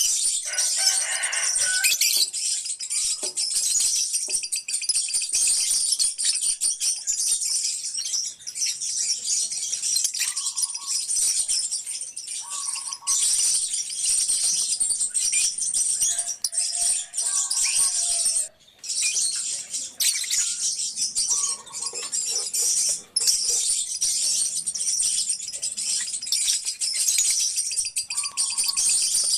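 A colony of lovebirds chirping and chattering continuously, a dense high-pitched twittering with occasional lower squawks, broken off briefly a few times.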